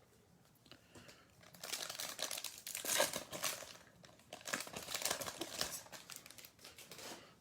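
A trading card pack's wrapper being torn open and crinkled by hand, in two bouts of crackling starting about a second and a half in.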